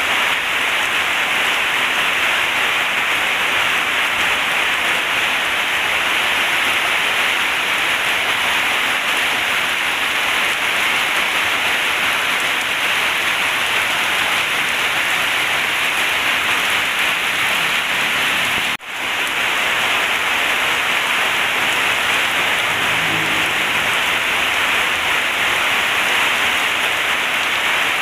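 Heavy rain falling in a steady, dense hiss. It cuts out for an instant about nineteen seconds in, then carries on unchanged.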